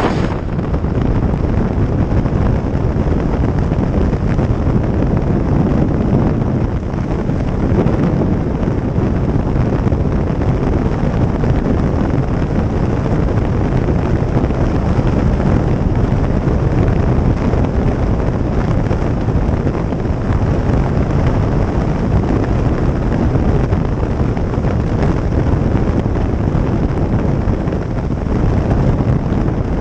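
Wind rushing over the microphone of a moving motorcycle, a steady loud roar with the bike's engine running underneath.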